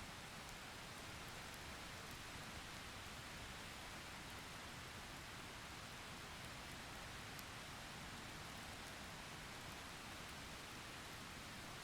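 Soft, steady rain falling: an even hiss with a few light drop ticks scattered through it.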